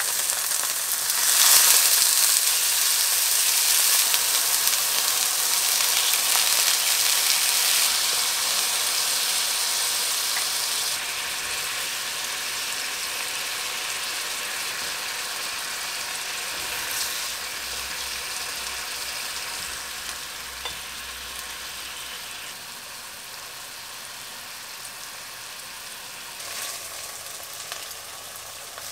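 Seaweed-wrapped tofu sizzling in a frying pan. The sizzle flares up about a second and a half in, then fades gradually as the tofu braises down in its sauce.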